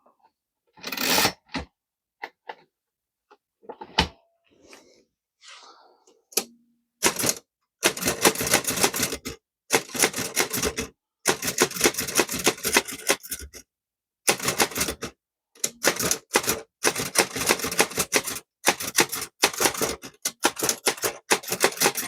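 Chicago typewriter typing a line in runs of rapid keystrokes from about seven seconds in. Before that, a sheet of paper is fed into the machine with a brief rustle and a few clicks.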